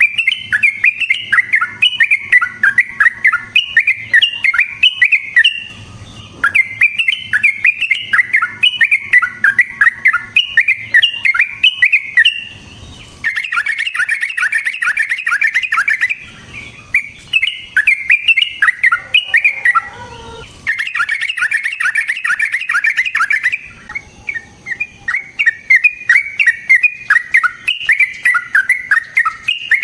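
Yellow-vented bulbul (trucukan) singing long, rapid runs of bubbling, chattering notes in phrases of a few seconds each, separated by brief pauses.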